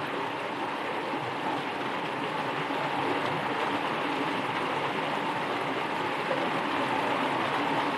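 Steady rain falling, an even hiss of many drops with no single strikes standing out, growing slightly louder a few seconds in.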